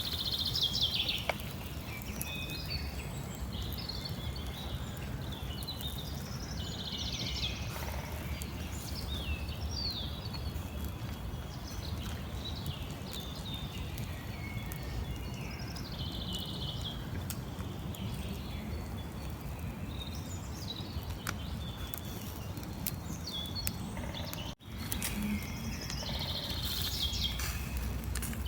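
Small birds chirping and singing in short, scattered phrases over a steady low background rumble. The sound cuts out for an instant about three-quarters of the way through.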